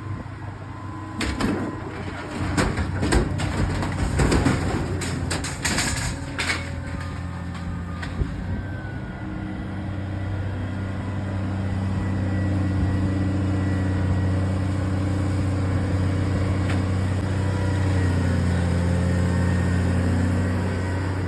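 Excavator engine running steadily under load, with a flurry of loud metallic clanks and bangs of scrap metal during the first several seconds. The engine grows a little louder about halfway through, its pitch shifting slightly as the machine works.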